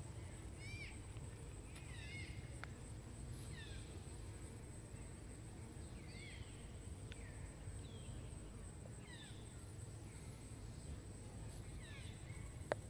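A bird chirping: short falling chirps repeated about once a second, over a low steady rumble, with one sharp click near the end.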